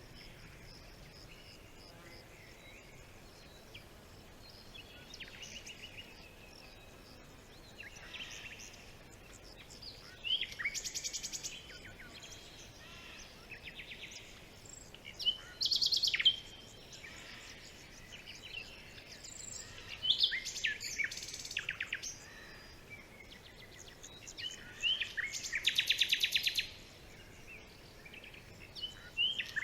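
Several songbirds calling and singing in a forest: short high chirps, sharp sweeping notes and rapid buzzy trills, the loudest phrases coming about every four to five seconds in the second half, over a faint steady background hiss.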